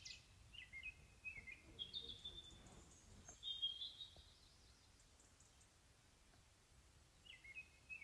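Faint bird chirps: a few short calls in the first half, then near silence, with one more brief chirp near the end.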